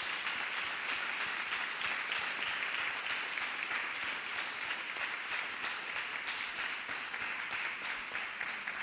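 A congregation clapping and applauding, many hands at once, easing off slightly near the end.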